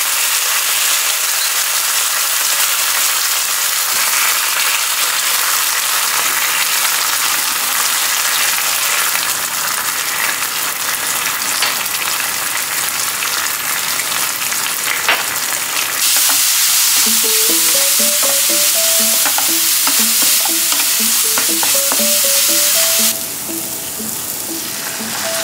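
Chopped onions frying with a loud, steady sizzle in a non-stick pan, with scattered clicks and scrapes of a spatula stirring in the sauces. Faint background music with a simple melody comes in about two-thirds of the way through.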